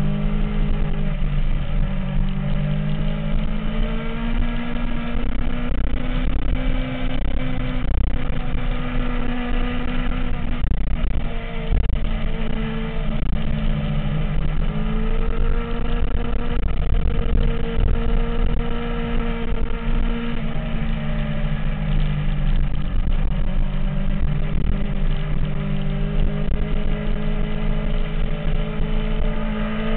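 MV Agusta F4's inline-four engine running at fairly steady revs, its note drifting slowly up and down, over a continuous low rumble; the pitch starts to climb right at the end.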